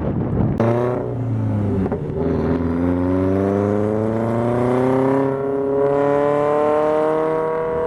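Toyota 86 flat-four engine exhaust, fitted with an aftermarket 'hater pipe' overpipe. A clattery start gives way about half a second in to a strong engine note that dips briefly, then rises steadily in pitch as the revs climb.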